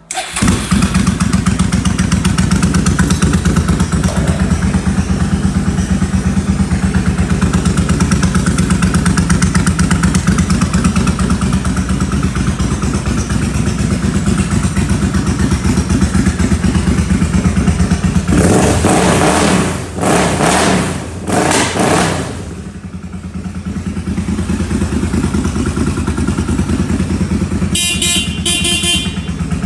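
2003 Suzuki VZ800 Marauder's V-twin engine running at a steady, pulsing idle. About two-thirds of the way through there is a louder, rougher stretch of a few seconds, and near the end a few sharp high clicks.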